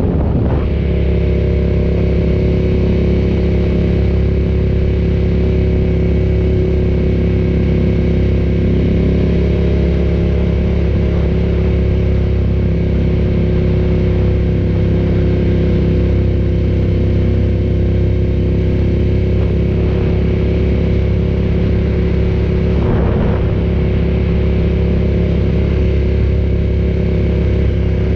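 Ducati café racer motorcycle engine running at a steady pace while riding, its pitch holding level.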